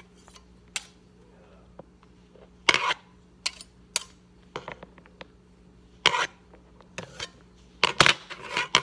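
Small hard bricks being set down and stacked one on another: irregular clacks and clicks, some in quick clusters, about a dozen in all.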